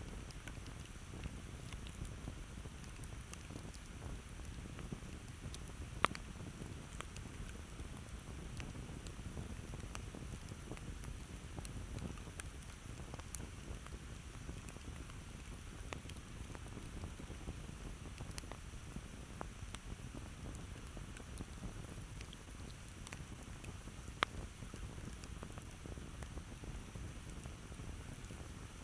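Campfire burning with frequent small crackles over a steady low rush. Two sharper pops stand out, about six seconds in and again some eighteen seconds later.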